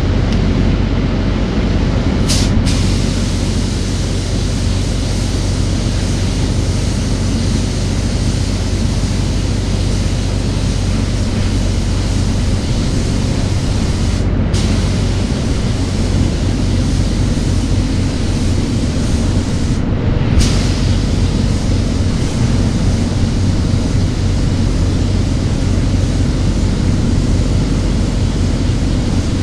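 Paint spray gun hissing steadily as it sprays base coat onto an engine block, with a steady low hum underneath. The hiss breaks off for a moment three times, as the trigger is let go.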